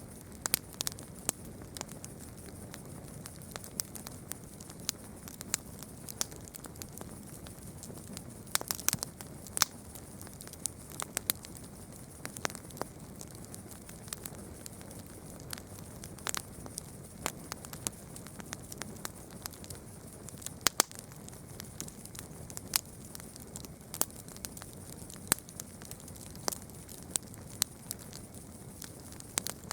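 Wood campfire burning: irregular sharp crackles and pops, a few a second, with some louder snaps, over a steady low hiss of the flames.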